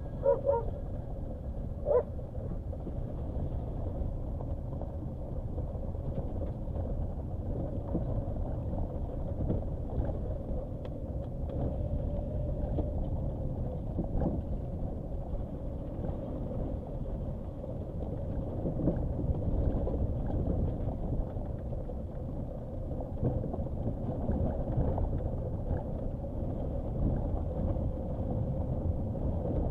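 Nissan Qashqai driving slowly over a rough dirt track: a steady low rumble of engine, tyres and suspension, with a faint steady tone running through it. A dog barks a few times in the first two seconds.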